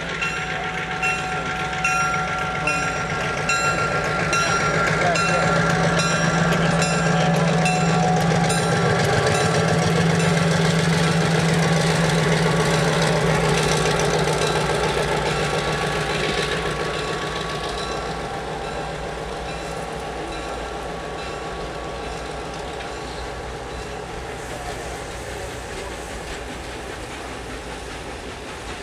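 Diesel locomotive passing with its engine running as a steady low drone, loudest through the middle, followed by passenger coaches rolling by with a quieter clickety-clack of wheels on rail joints. A rapid high ringing repeats over the first few seconds.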